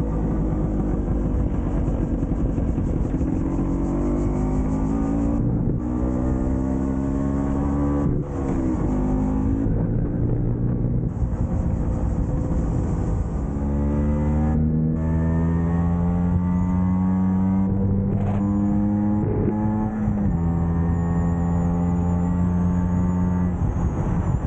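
Vespa PX scooter's two-stroke single-cylinder engine under way, its pitch rising as it accelerates and briefly dropping at each of several gear changes. Near the end it holds a steady pitch at cruising speed.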